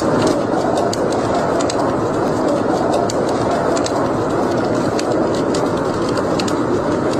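Wood fire burning in a fireplace: a steady rushing sound with frequent small, sharp crackles and pops scattered through it.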